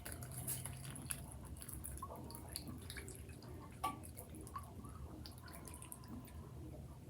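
Milk, egg and melted-butter mixture pouring and dripping onto oats in a baking dish: faint, with scattered small drips and ticks.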